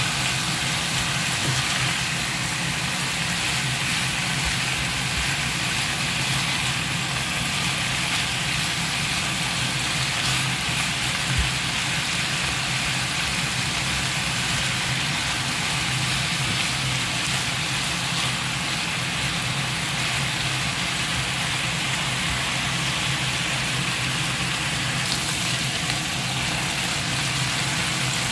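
Chicken pieces sizzling steadily in oil in a frying pan, over a steady low hum.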